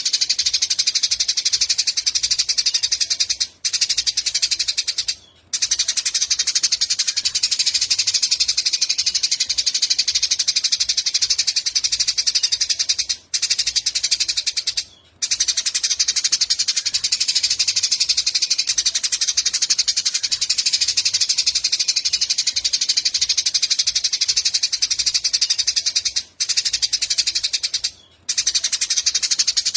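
Eurasian tree sparrows chirping in a dense, unbroken chatter, cut by a few brief silent gaps.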